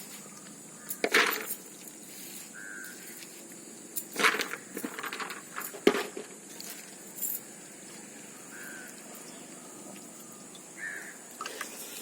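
Close-up eating sounds from a person eating pakhala, watered rice, with side dishes: short wet mouth noises about a second in, around four to five seconds, and near six seconds, with smaller ones later.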